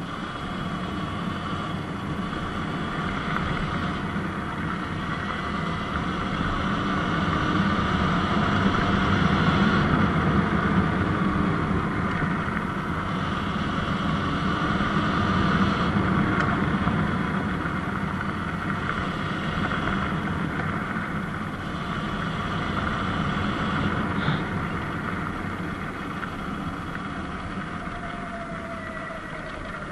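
Surron Light Bee electric dirt bike being ridden: steady motor and tyre noise with wind rushing past, getting louder through the middle stretch.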